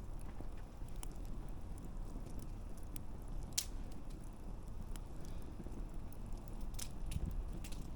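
Wood campfire crackling: a steady low rumble of burning with scattered sharp pops and snaps, the loudest about three and a half seconds in and again near seven seconds.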